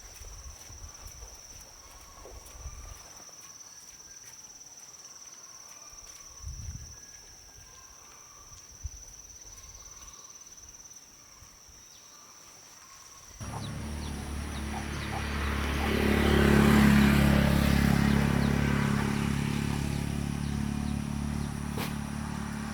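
Quiet outdoor ambience with a steady high-pitched drone and a few soft thumps. About thirteen seconds in it cuts abruptly to a much louder steady low engine-like hum that swells and then slowly eases.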